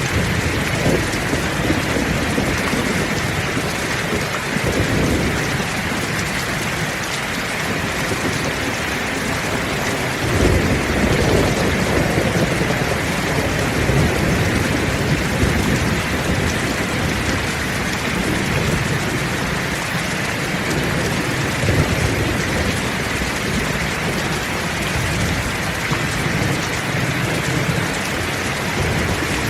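Heavy rain falling steadily, with low rumbles of distant thunder rolling underneath, the strongest about ten seconds in.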